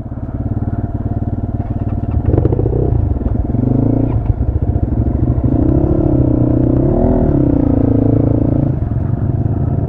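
A 250 cc motorcycle engine running at low speed while ridden slowly, its note rising and falling a few times.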